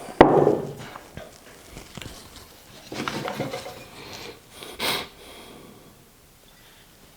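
Ceramic mugs being handled on a work table: a sharp knock about a quarter of a second in, then scattered softer clinks and rubbing sounds.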